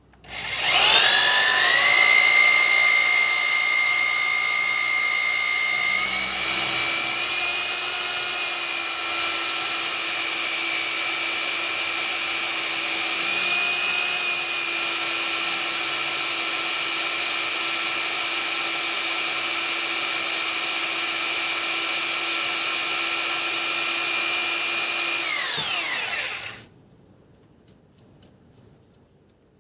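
Electric drill with a cobalt drill bit spinning up to speed and running steadily with a high whine. About six seconds in, its pitch shifts and a lower steady tone joins. Near the end it winds down and stops, followed by a few faint clicks.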